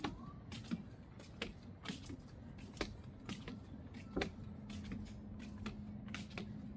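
Footsteps clicking on hard ground at a walking pace, about one or two steps a second, over low background noise; a low steady hum comes in about four seconds in.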